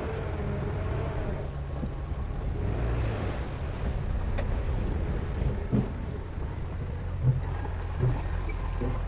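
Heavy diesel machinery engine running steadily at a low rumble, with three short dull thuds in the second half.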